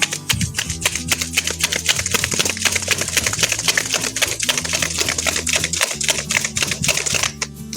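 Log campfire crackling and popping rapidly as its flames flare up again after fanning, with faint background music underneath.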